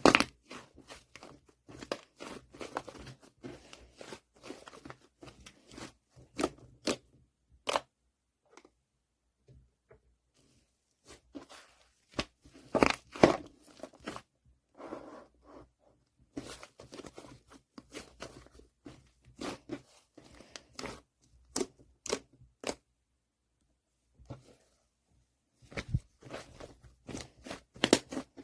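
Fluffy clay slime being squeezed and stretched by hand, giving irregular sticky crackles and small pops, with a few short pauses.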